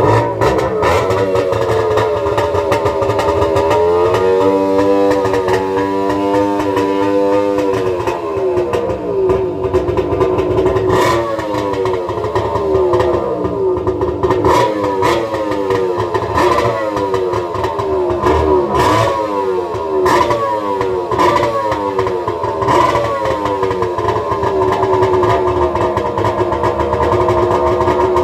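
Two-stroke jet ski engine running and being revved, its pitch rising and falling in a string of quick throttle blips, with a few sharp knocks in between.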